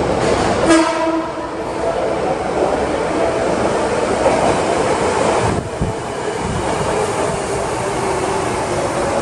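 Hankyu 7300-series electric train arriving in an underground station: a short horn blast about a second in, then the steady rumble and wheel noise of the cars running into the platform and slowing.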